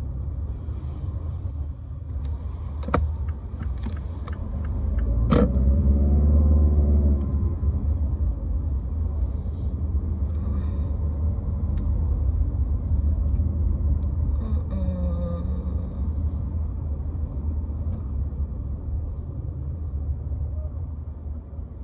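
Road and engine rumble heard from inside a moving car's cabin, steady and low, swelling louder for a few seconds about five seconds in. Two sharp clicks come at about three and five seconds.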